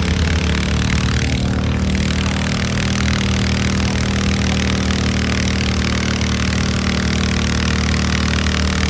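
Tractor engine running steadily at an even pitch during a tractor pull.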